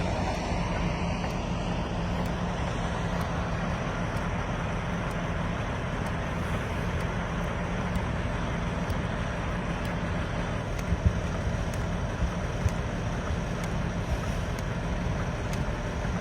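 Steady vehicle road noise with a low engine hum, with a few light knocks about eleven to thirteen seconds in.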